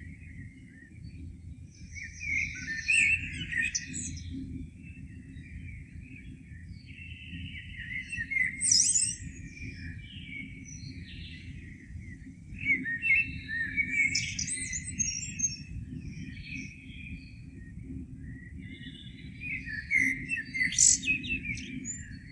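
Songbirds singing morning song in separate phrases a second or two long, several times over, above a steady low rumble.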